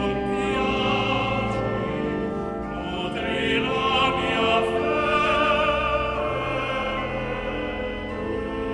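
Background music of choral singing: several voices hold long chords with vibrato, in an operatic or sacred style.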